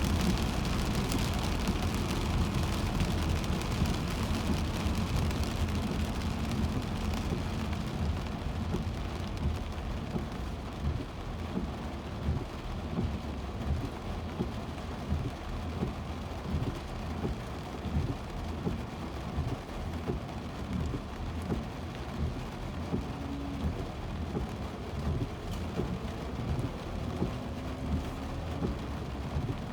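Rain on a moving car, with tyre noise from the wet road. It eases a little after about ten seconds.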